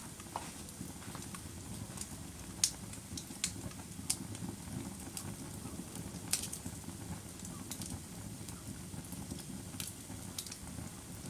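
Wood fire burning: a steady low rush of flames with sharp crackles and pops at irregular intervals, about a dozen in all.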